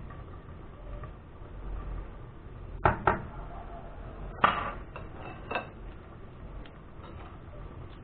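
A utensil knocking and clinking against a dish: two quick clicks about three seconds in, a louder clink with a short ring a second and a half later, and one more about a second after that.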